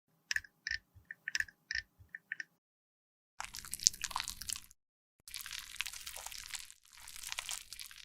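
Close-up sounds of cosmetics being worked by hand: about eight soft taps or drips over the first two and a half seconds, then three spells of crunchy scraping, each ending abruptly.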